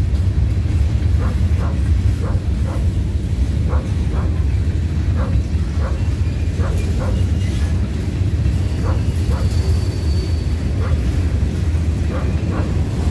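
BNSF freight train's covered hopper cars rolling past at close range: a steady low rumble with frequent short clicks from the wheels on the rails.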